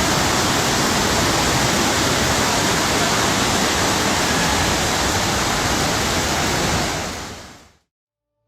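Loud, steady rush of water with no rhythm or tone, fading out near the end.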